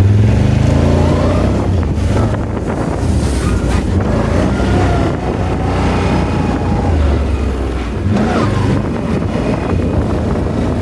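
Off-road vehicle engine running under way, revving up about a second in and then rising and falling with the throttle, with heavy wind noise on the microphone.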